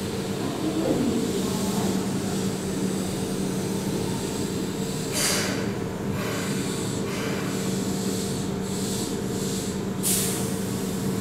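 Keihan 6000-series electric train drawing to a stop at the platform, its equipment giving a steady hum. Two short, sharp hisses of compressed air come about five seconds in and again near the end as it stands.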